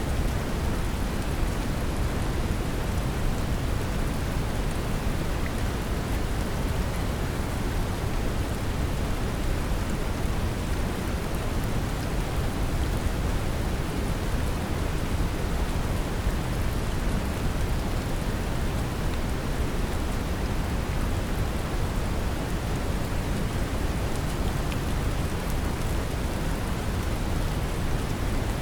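Steady brown noise, a deep even hiss, mixed with gentle rain, with faint scattered drop ticks over the top.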